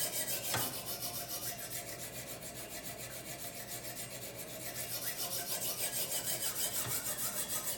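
Coarse 80 grit bonded diamond stone on a guided rod sharpener stroked back and forth along a steel kitchen knife edge in fast, even strokes, a rasping scrape, grinding in the first bevel to raise a burr.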